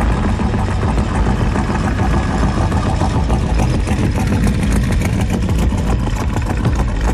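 A car engine idling steadily and loudly.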